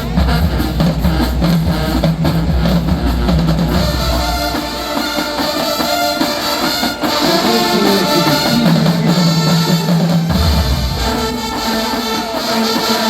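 Marching band playing: brass and drums. For the first few seconds heavy low brass and drum strokes lead, then the low end drops back under sustained brass chords.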